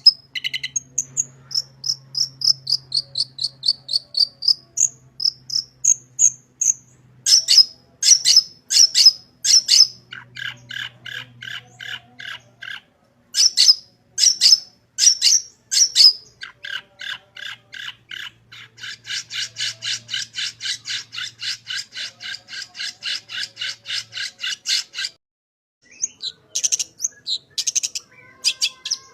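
Long-tailed shrike (cendet) singing a varied song packed with mimicked phrases: high whistled notes, sharp repeated chips, and long, fast rattling trills, with a short pause near the end.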